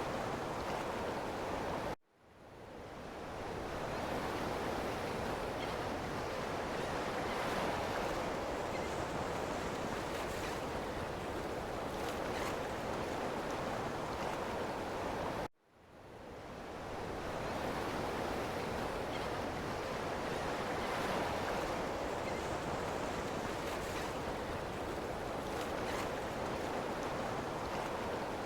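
Steady wash of ocean surf. It cuts out abruptly about two seconds in and again about halfway through, each time fading back in over a second or two, like a loop restarting.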